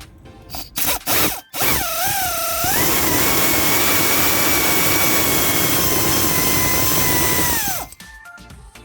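A handheld electric power tool runs up with a wavering rise in pitch, holds a steady high whine for about five seconds, then stops. A few knocks come just before it.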